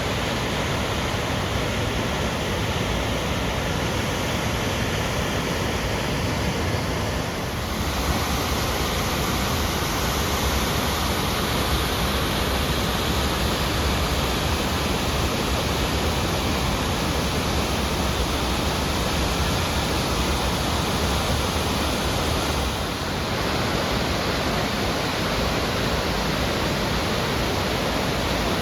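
Double Falls on Tumalo Creek: a loud, steady rush of falling water, briefly a little softer twice.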